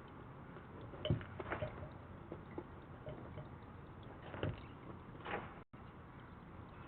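A few scattered sharp taps and knocks over a steady hiss. The loudest come about a second in and about four and a half seconds in.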